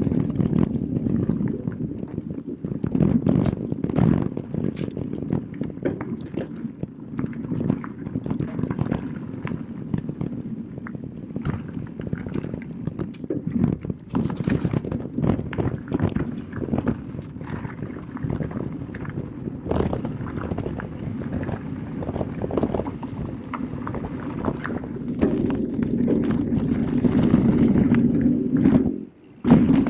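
Specialized Turbo Kenevo SL e-mountain bike riding a forest trail: a steady rumble of tyres rolling over the ground, with frequent irregular knocks and rattles from the bike going over bumps.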